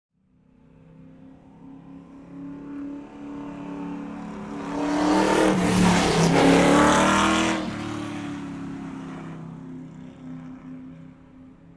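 A car engine going by: it rises out of silence, grows loud, is loudest about six seconds in, then fades away.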